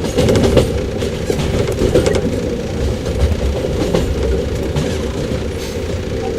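115 series electric multiple unit running, recorded aboard motor car KuMoHa 115-318: a steady rumble with a traction-motor hum, and the wheels clicking over rail joints several times at uneven intervals.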